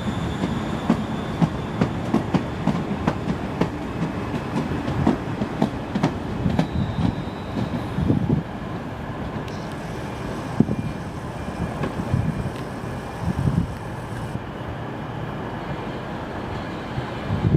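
Passenger train moving slowly along the platform, its wheels clicking over rail joints at an uneven rhythm over a low rumble, with a thin high steady tone that stops about eight seconds in.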